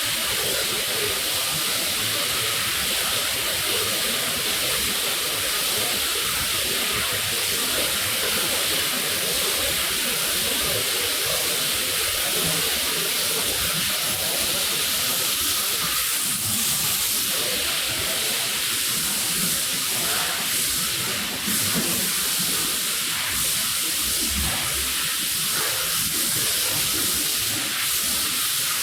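Steady, loud hiss of water spraying onto a wet rug during rug washing.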